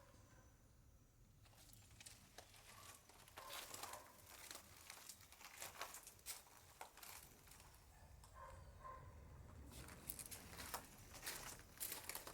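Faint, irregular crinkling and clicking of a small animal feeding.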